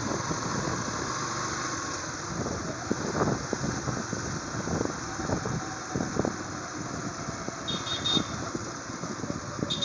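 Wind buffeting and road noise from a moving motorcycle, with a short high horn beep about eight seconds in and another starting at the very end.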